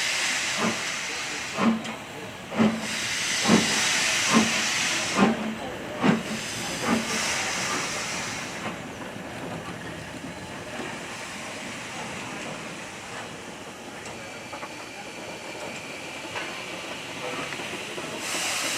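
Steam locomotive working slowly: regular exhaust beats about one a second over loud steam hiss. The beats fade out about seven seconds in, leaving a steady hiss and rumble.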